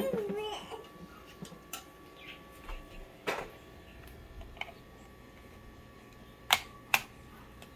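Plastic toy tongs and toy food clicking and tapping on a wooden table: scattered light ticks, with a loud knock at the very start and two sharp clacks about half a second apart near the end.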